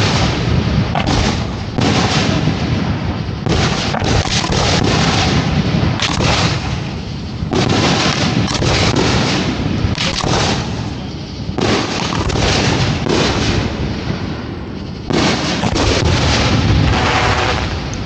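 Fireworks show being fired: a dense barrage of overlapping booms and bangs, coming in waves a second or two apart.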